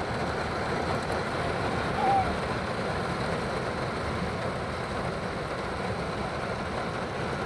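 Heavy rain falling steadily on the roof and windows of a parked car, heard from inside the cabin, with a short tone about two seconds in.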